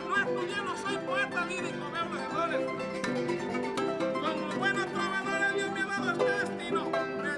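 Son jarocho music from Veracruz: a harp plucking quick melodic runs over strummed string accompaniment.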